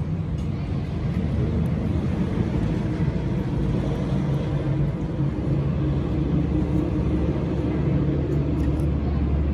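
Metal lathe running steadily: a low, even hum with a few steady tones under it.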